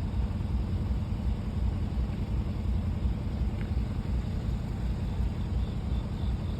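An engine running at a steady idle, a low, even rumble.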